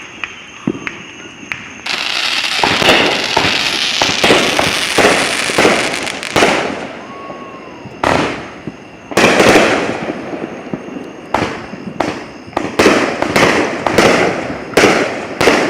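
Fireworks going off from many directions at once: scattered pops, then a dense crackling from about two seconds in lasting several seconds. Loud booms follow, then a quick run of bangs about two a second near the end.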